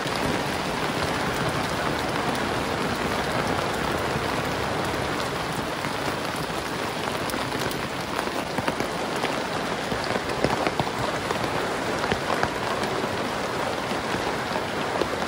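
Heavy rain falling steadily, an even hiss with many individual drops ticking through it, the ticks a little more frequent in the second half.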